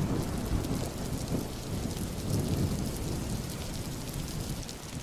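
Heavy rain falling, with a low rumble of thunder that slowly dies away.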